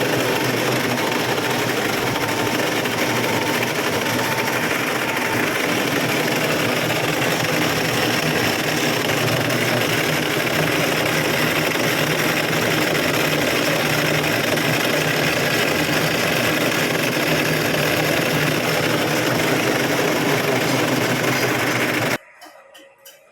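A machine or power tool motor running steadily under load, loud and noisy with a low hum. It stops abruptly near the end, leaving a few light clicks.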